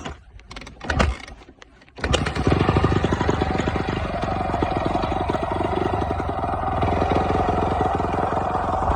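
Honda CRF250 single-cylinder four-stroke dirt bike engine, bored out with an Athena 290 kit, kick-started warm with the hot start: a first kick about a second in, then it catches about two seconds in and runs steadily with an even fast firing pulse.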